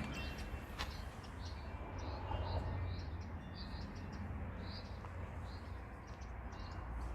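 Small birds chirping in short high notes, repeated about every half second, over a low steady rumble.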